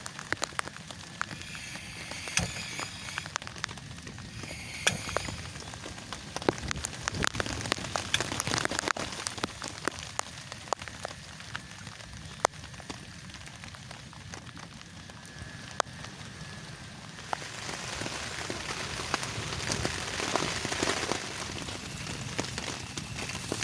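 Rain falling, with many separate drops tapping sharply on a nearby surface; the rain grows louder about two-thirds of the way through.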